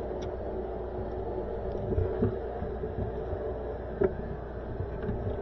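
Steady low hum with a few soft knocks and a sharper click about four seconds in, as a wiring plug connector is handled and pushed into its mating connector.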